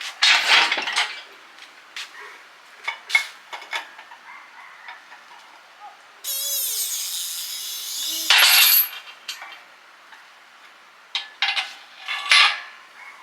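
Metal tools and parts clinking and knocking against each other, with a steady rasping hiss for about two seconds around the middle that ends in a short, louder scrape.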